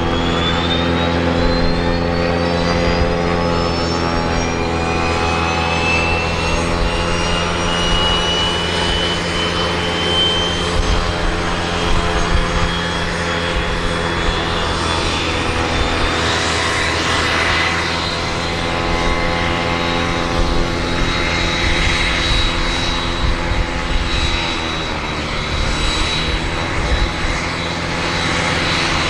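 Cessna 501 Citation I/SP's Pratt & Whitney JT15D turbofans running during a ground engine test. A high whine climbs in pitch over the first several seconds and then holds steady over a deep, even engine sound, which sags briefly near the end and then picks up again.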